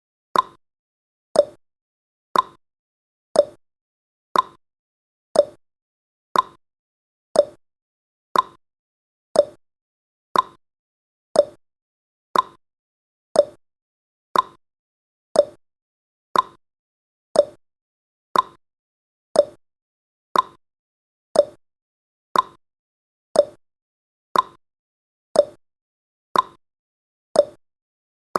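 Countdown timer's ticking sound effect: one short, sharp tick each second, evenly repeated.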